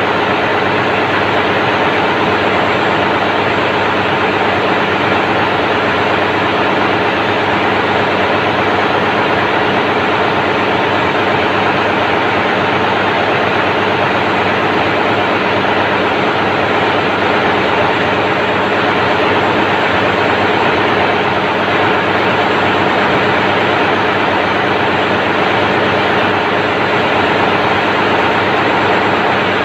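Daihatsu 6DL-19 six-cylinder marine diesel auxiliary engine, the ship's generator set, running steadily under load: a loud, even engine-room drone with a steady low hum that does not change.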